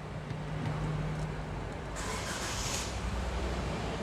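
Hyundai i30 engine being started: a short burst of cranking noise about halfway through as it catches, then settling into a steady low idle.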